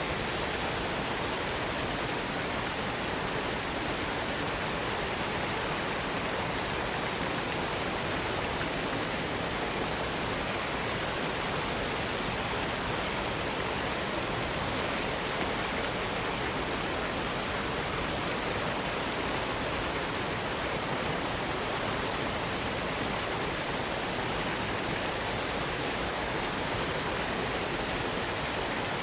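Waterfall: water falling and rushing in a steady, unbroken hiss of noise with no changes.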